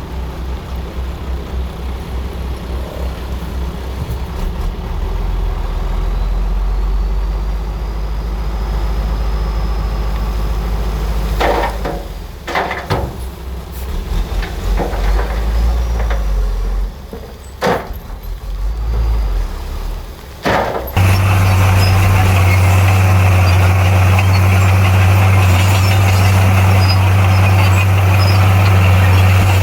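Heavy construction machinery's diesel engine working with a low rumble, with a few metallic knocks partway through. About two-thirds of the way in, the sound switches abruptly to a louder, steady engine drone.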